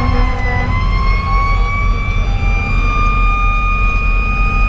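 Fire engine's mechanical siren, a Federal Q2B, held near top pitch, dipping slightly early on, then climbing back and holding, over the steady rumble of the truck's diesel engine and road noise.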